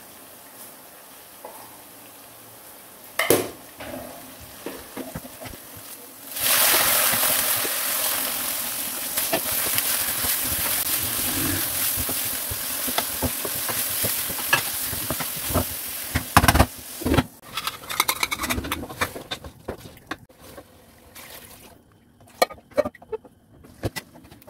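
Minced meat frying in hot oil over browned onions in a pan. A low hiss jumps to a loud sizzle about six seconds in and holds for some ten seconds, with a spatula scraping and stirring through it. After that the sizzle drops and only scattered stirring scrapes and clicks remain.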